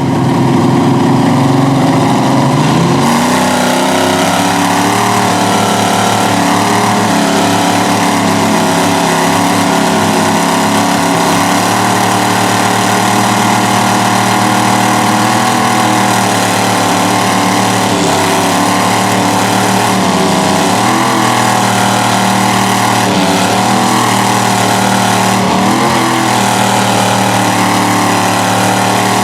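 Truck engines held at high revs under heavy load, running loud and steady with slight wavers in pitch, as in a tug-of-war pull.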